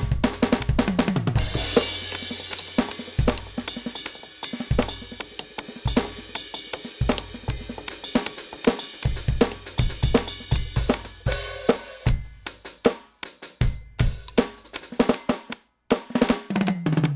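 NUX DM-8 electronic drum kit played as a full kit: kick, snare, hi-hat and cymbals in a steady groove, with a crash about two seconds in and tom fills near the start and end. The playing stops briefly twice in the second half.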